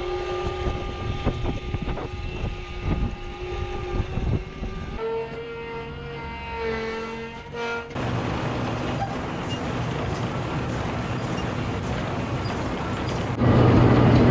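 A vehicle engine running, its sound changing twice: a steady pitched note with scattered clicks, then a different pitched note, then a steadier hum that gets louder near the end.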